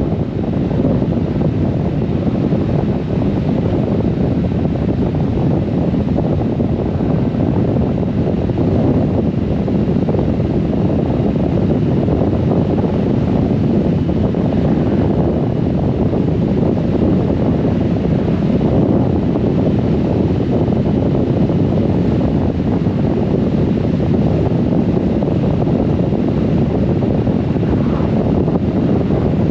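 Steady wind rush on the microphone of a moving Honda GoldWing motorcycle, a constant low roar with no letup.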